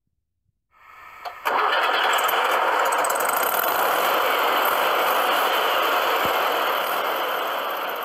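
VW Beetle 1302's air-cooled flat-four engine starting: a faint sound with a click just after a second in, then the engine catches and runs loud and steady from about a second and a half in, fading near the end.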